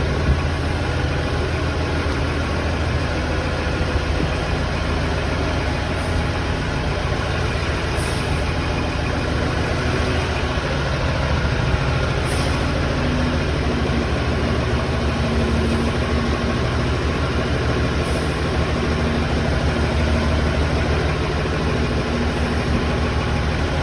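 Heavy container-handling forklift's engine running steadily under load as it carries a 40-foot shipping container.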